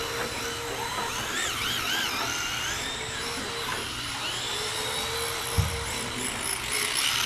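High-pitched whine of RC drift cars' brushless electric motors, rising and falling in pitch as the throttle is worked, with a single thump about five and a half seconds in.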